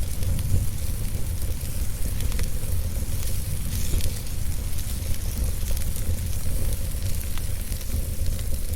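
Wood fire crackling with scattered sharp pops over a steady low rumble.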